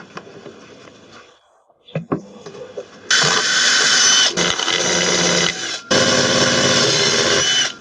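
Electric drill with a 4 mm bit boring a hole through the plastic washing-machine tank at its seam. A few seconds of quiet handling and small knocks, then the drill runs under load from about three seconds in, with a brief break partway, and stops just before the end.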